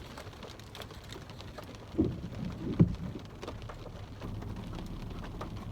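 Rain falling on a car's roof and windows, heard from inside the car as a steady hiss with many small drop ticks. Two dull thumps come about two and three seconds in.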